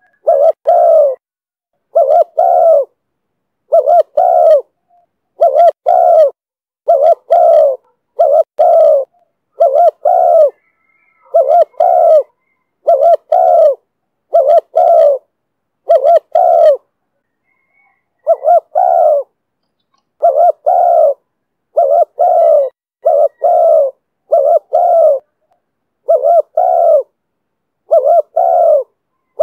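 Spotted dove cooing over and over, its notes coming in close pairs about every one and a half to two seconds, with one slightly longer pause past the middle. This is the voice Vietnamese dove keepers call 'thổ thúc bổi'.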